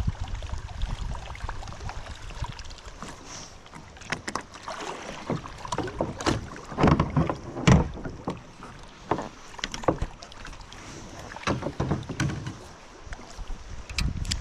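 Kayak being paddled: irregular splashes and knocks of the paddle against the hull, loudest about seven to eight seconds in.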